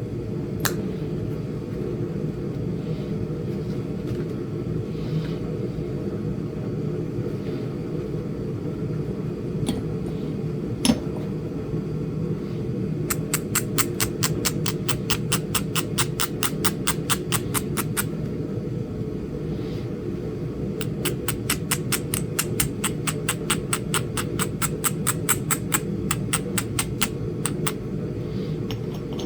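Flint Ridge chert point being worked: a few single sharp clicks, then two long runs of rapid, evenly spaced ticking, about eight a second, from about 13 to 18 s and 21 to 27 s. Under it all is a steady low hum.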